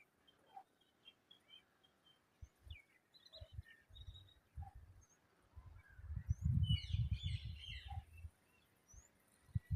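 Babblers giving short chirps, with a dense burst of chattering calls from about six to eight seconds in. Under them, low rumbling thumps on the microphone, loudest during that burst.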